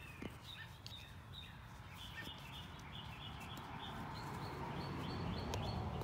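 A bird chirping a quick run of short high notes, about three a second, over faint outdoor background hiss, with a few light clicks of handling.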